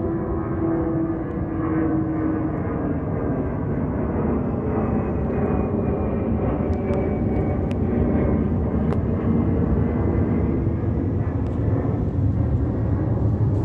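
Boeing 757-200's Pratt & Whitney PW2037 turbofans at climb power, a loud steady jet rumble. Whining tones glide down in pitch over the first few seconds as the airliner passes, and the deep rumble grows heavier near the end.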